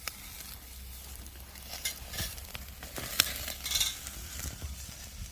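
Oak firewood crackling and popping under a grill as food sizzles over it, with one sharp pop about three seconds in.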